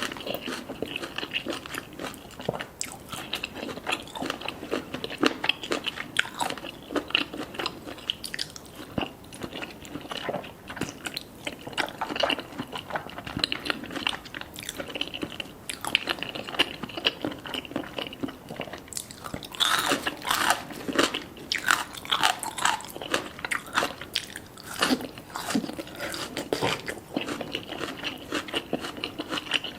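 Close-up crunching and chewing: many irregular crisp crunches, as of someone biting and chewing crunchy food, with a busier stretch about two-thirds of the way through.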